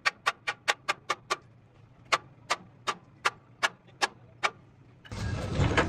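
A run of sharp, evenly spaced mechanical clicks, about five a second at first. After a short pause they come slower, about seven clicks at two or three a second. A louder, dense noise starts about five seconds in.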